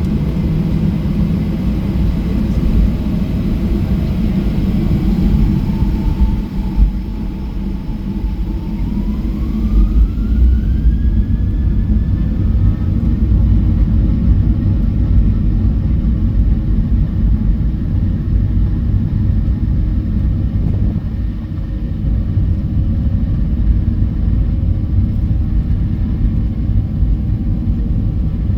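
Cabin noise aboard a Boeing 737-800 under power: a loud, steady low rumble from its CFM56 engines and the airflow, with a faint whine that climbs in pitch a few seconds in.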